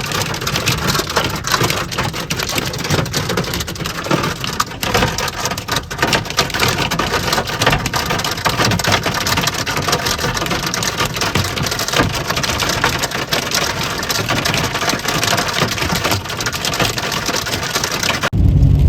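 Hail and heavy wind-driven rain pelting down: a dense rush full of small, sharp hits. Near the end it cuts off suddenly and gives way to a low rumble.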